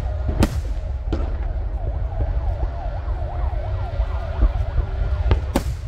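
Fireworks display: a constant low rumble with sharp bangs about half a second in, about a second in, and twice near the end. Many overlapping whistling tones slide up and down over the rumble.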